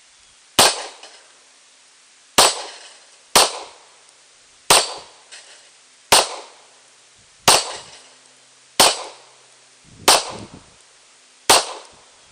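Semi-automatic pistol firing nine single shots, slow and evenly paced about one every second and a half, each a sharp crack with a short echo.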